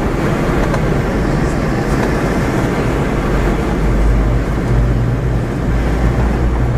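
Boeing 717-200 cabin noise on descent to landing: a steady rumble and airflow hiss from the rear-mounted Rolls-Royce BR715 turbofans and the slipstream, with the low rumble growing stronger about four seconds in.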